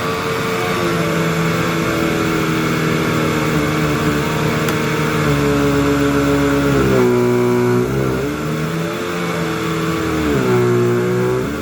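Hoover WindTunnel bagless upright vacuum running on carpet, its motor giving a steady whine. The pitch sags briefly twice, about seven and ten and a half seconds in, as the motor takes on more load.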